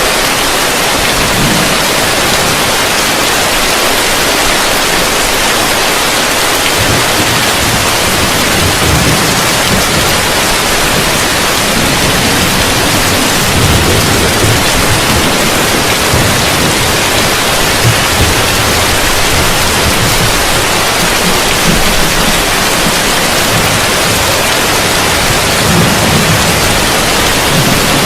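Heavy rain falling steadily on a roof: a dense, even hiss, with a deeper, uneven low sound coming and going underneath from about eight seconds in.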